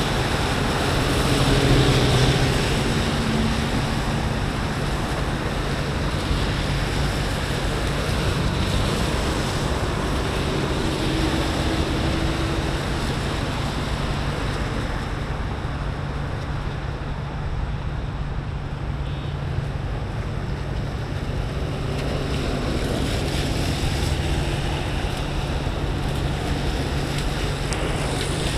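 Steady rushing wind noise on a camera microphone with its wind guard removed, riding on a bicycle through wet streets.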